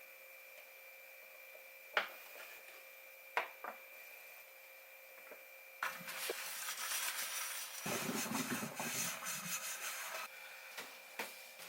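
Two sharp knocks, then about four seconds of scraping and rubbing noise in a small room, with a few light ticks afterwards.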